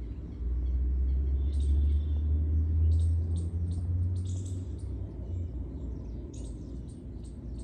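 Birds chirping in short, scattered calls over a low rumble on the microphone, which is loudest in the first half and fades away.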